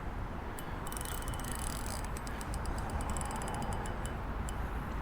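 Fishing reel clicking rapidly as it is cranked or gives line, a dense rattly ticking that thins out towards the end, over a steady low background rush.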